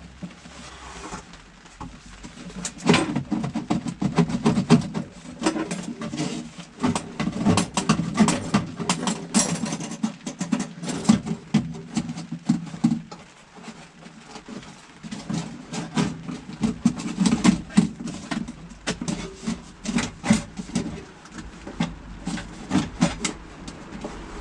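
Irregular clicks, knocks and rustling of hands working inside a truck's cab, pulling out a snapped, brittle plastic air-intake hose and old foam packing.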